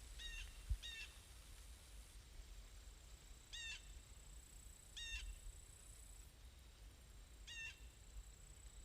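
A bird calling: five short pitched calls, a second or more apart. A brief low thump comes just after the start.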